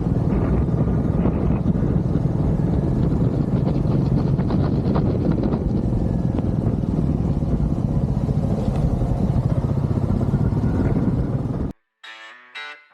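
Motorcycle engine running steadily under way, with rumbling wind and road noise. It cuts off abruptly about a second before the end, and guitar music starts up.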